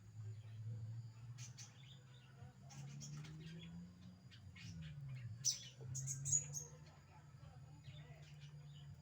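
A songbird giving short, scattered high chirps and calls rather than full song, the loudest two about five and a half and six seconds in, over a steady low hum.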